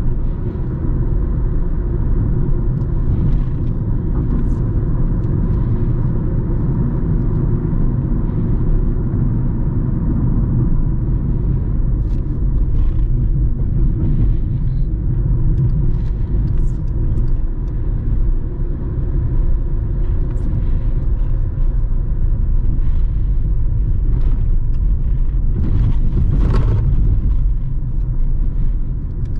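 Steady low rumble of factory machinery, with a faint constant hum and scattered light clicks and knocks, and one short louder sound near the end.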